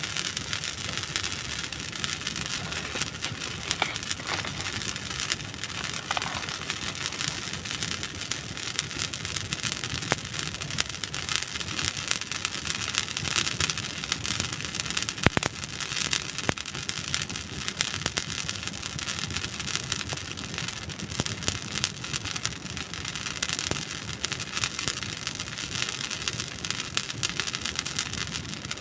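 Campfire of dry wood burning, a dense steady crackle of small snaps with one sharper pop about halfway through.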